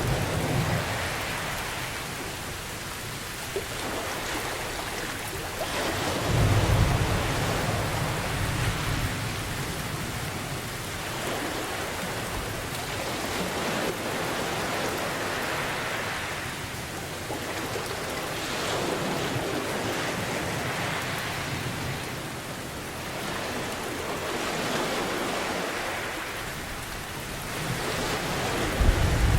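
Steady heavy rain with a hiss that swells and eases every few seconds, and low thunder rumbling at the start, again about six seconds in, and near the end.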